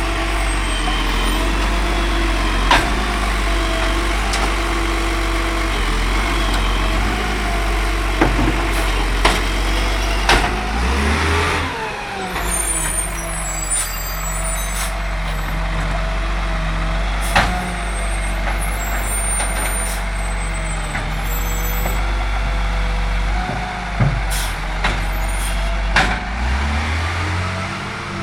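Bin truck engine running with short clanks and knocks at intervals. The engine note changes about a third of the way in, settling lower, and picks up again near the end.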